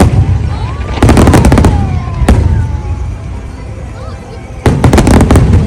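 Fireworks display: rapid volleys of sharp bangs over a steady low rumble. One cluster of bangs comes about a second in, a single bang follows a little after two seconds, and another quick volley comes near the end.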